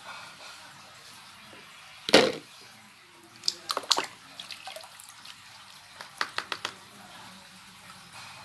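Water splashing and dripping as plastic toys are washed in a bucket of water: one splash about two seconds in, then two quick runs of small drips.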